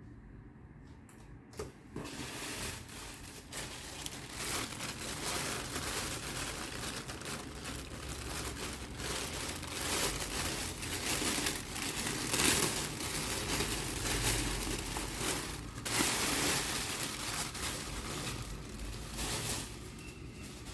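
Packaging crinkling and rustling as it is handled and unwrapped, starting after a few light clicks about two seconds in and easing off near the end.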